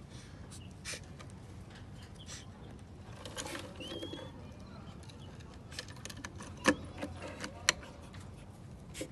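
One short rising bird chirp about four seconds in, over a low background murmur, then a few sharp clicks in the second half, the loudest two about a second apart.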